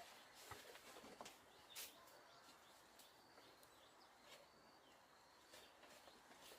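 Faint rural ambience with small birds chirping now and then, and a few faint clicks.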